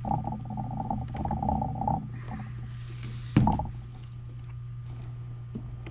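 Plastic wire connector being squeezed and worked at by hand, a scratchy rubbing for about two seconds, then a single sharp knock about three and a half seconds in. A steady low hum runs underneath.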